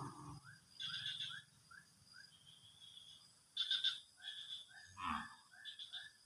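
Animal calls: runs of short chirping notes, about three a second, with a few louder bursts about a second in, near the middle and near the end.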